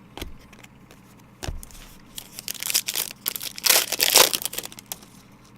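Crinkling and tearing of a trading-card pack wrapper as it is handled and opened, with a couple of light clicks first and a dense crackle about two seconds in that is loudest near the four-second mark.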